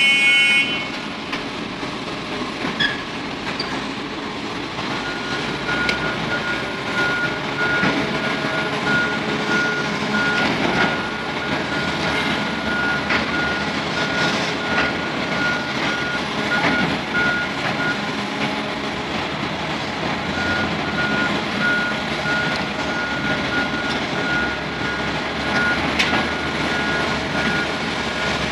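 Heavy earthmoving machine running, with its reversing alarm sounding a rapid run of single-pitch beeps that pauses briefly about two-thirds through.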